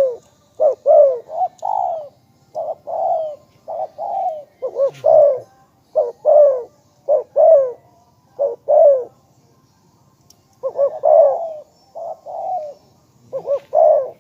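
Spotted dove cooing: phrases of short, repeated coo notes, with a pause of about a second and a half past the middle before the cooing resumes.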